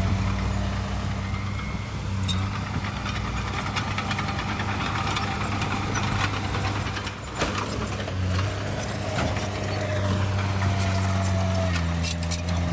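Heavy diesel engine of an earthmoving machine running steadily, with a thin whine over it and a few knocks and clanks around the middle.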